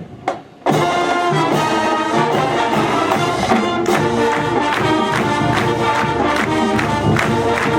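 High school marching band playing its fight song: brass over a steady drum beat, the full band coming in together under a second in, right after the last clicks of a drumstick count-off.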